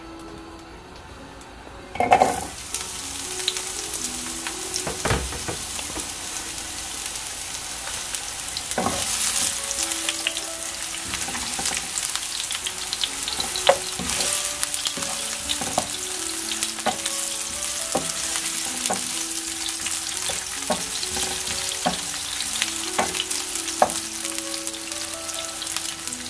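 Food hitting hot oil in a pan about two seconds in, then a steady sizzle with crackling and occasional knocks of a utensil stirring.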